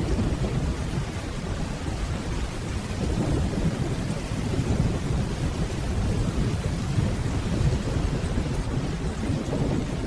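Steady rainfall with a low, continuous rumble of distant thunder beneath it.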